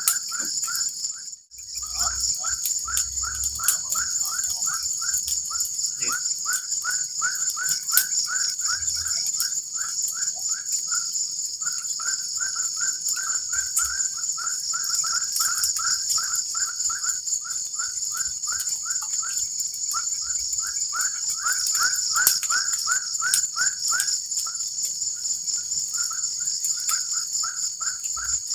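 Forest night chorus: insects such as cicadas or crickets keep up a steady high, pulsing trill, over which a small animal gives a rapid run of short chirping calls, about three or four a second. The sound drops out briefly about a second and a half in.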